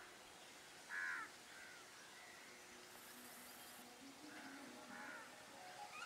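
Birds calling: several short, harsh calls, the loudest about a second in, with quieter ones scattered through the rest.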